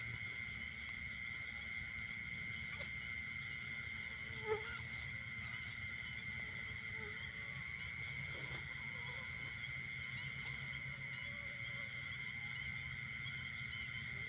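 Steady chorus of insects (crickets) in the field, a constant shrill drone over a low rumble, with two brief clicks about three and four and a half seconds in.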